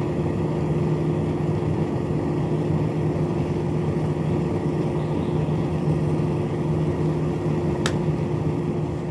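Small battery-powered electric motor running steadily with a constant hum, and a single click about eight seconds in.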